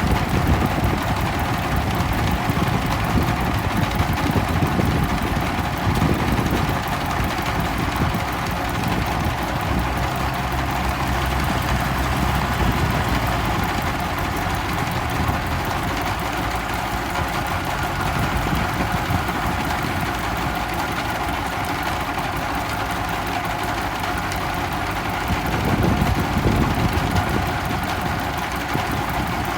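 M5018 tractor's diesel engine running steadily while plowing, swelling briefly in loudness near the end.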